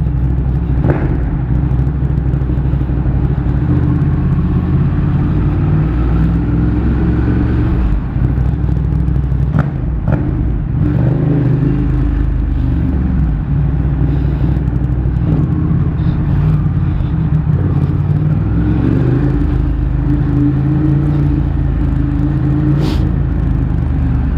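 Motorcycle engine running while riding in slow traffic, its note rising and falling gently as the throttle changes, over steady road rumble, with a few brief clicks.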